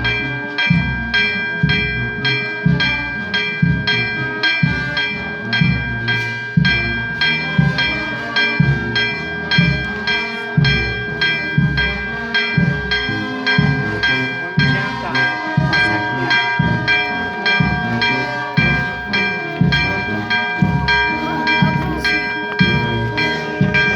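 Church bells rung rapidly and steadily, about two strokes a second, each stroke landing with a low thump while the bell tones ring on between strokes.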